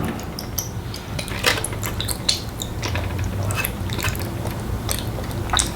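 A child eating a soft mochi rice cake: scattered small clicks and smacks of chewing, irregular and close up, over a steady low hum.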